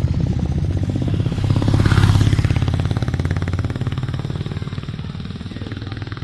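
Motorcycle engine running with a rapid, even firing beat; it grows louder about two seconds in, then gradually eases off.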